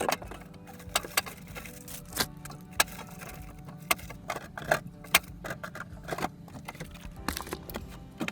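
Irregular clicks, knocks and small clatters of household items being handled and moved, over background music.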